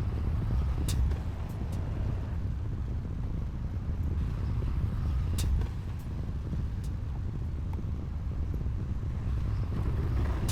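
Heavy diesel earthmoving machinery, a bulldozer or dump truck, running with a steady low engine rumble, with a few sharp clanks about a second in and again about five seconds in.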